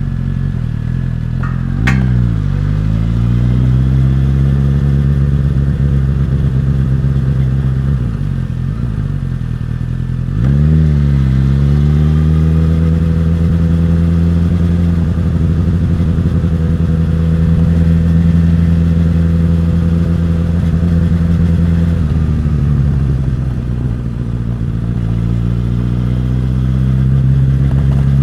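Suzuki GSX-S1000's inline-four engine and exhaust while riding. Its pitch dips and climbs again about two seconds in, with a sharp click, and again about ten seconds in, when it gets louder. It then holds a steady note, sags briefly past the twenty-second mark, and steadies again.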